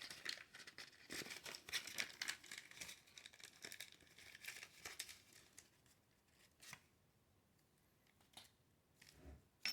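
Packaging being crinkled and torn open for about the first six seconds, then a few faint scattered taps.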